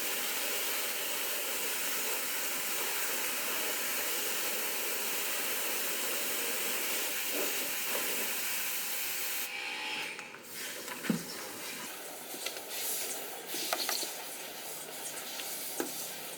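Steady hiss of a cleaning spray jet, cutting off sharply about nine and a half seconds in; then a few small clicks and rubbing sounds.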